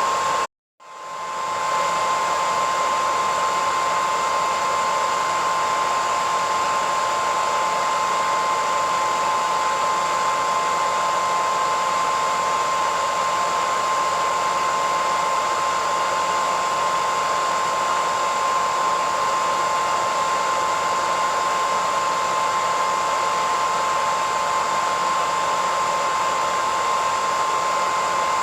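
Hair dryer blowing steadily: a rush of air with a steady whine on top. About half a second in, the sound cuts out briefly and then swells back up over about a second.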